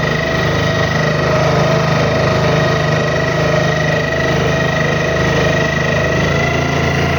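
Boat engine running at a steady speed, a low drone with a steady high whine over it.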